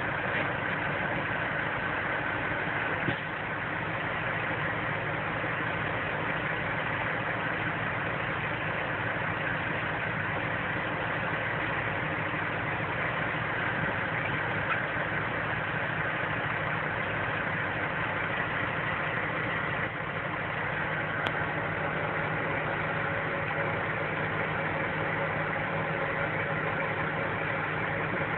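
Semi-truck diesel engine idling steadily, a constant hum with no revving.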